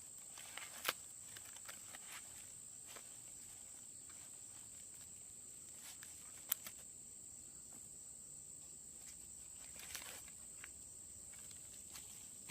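Steady high-pitched insect trill, with a few scattered sharp clicks and light rustles.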